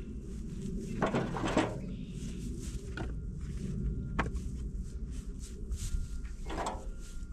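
Dry sticks cracking and knocking, about five irregular sharp snaps, over rustling in leaf litter as firewood is gathered by hand.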